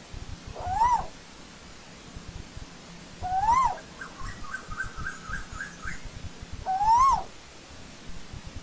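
Asian koel calling: three loud rising whistled notes, each swelling upward and breaking off at the top, about three seconds apart. A quieter rapid run of short notes follows the second call.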